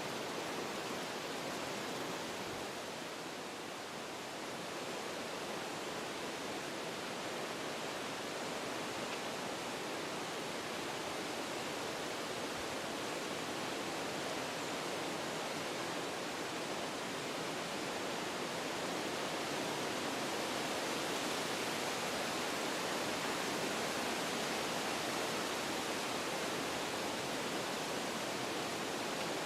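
Wind blowing through forest trees, a steady rush of moving leaves and branches that eases a little about four seconds in, then slowly builds.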